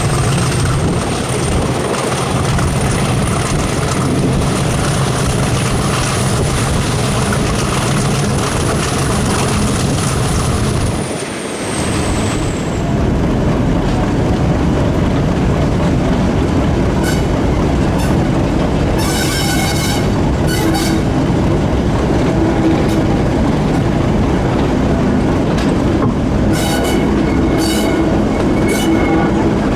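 A British Rail diesel-hauled train passing. For the first twelve seconds or so the locomotive's engine runs with a high steady whine, which then falls away. After that the coaches roll by, rattling over the rails, with two spells of high-pitched wheel squeal.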